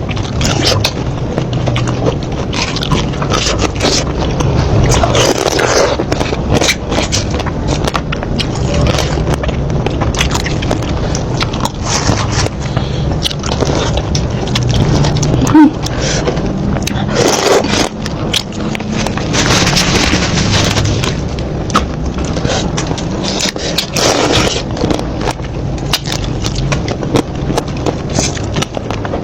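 Close-miked eating of seafood: chewing, lip smacks and the handling of shells, heard as many short crackles and clicks over a steady low rumble.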